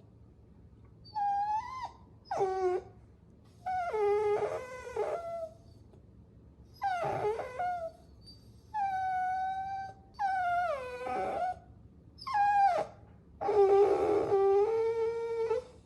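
Puppy whining: a string of about eight high-pitched whimpers and drawn-out whines with short pauses between them, several sliding down in pitch.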